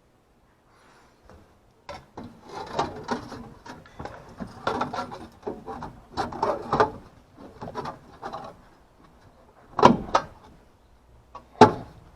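Irregular clattering, knocking and scraping of parts being handled during work on an air-conditioning unit, with two sharp knocks near the end.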